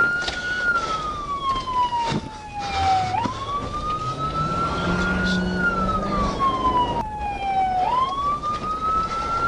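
Emergency vehicle siren in a slow wail, its pitch sweeping up quickly and then gliding down over a few seconds, the cycle repeating about every four and a half seconds.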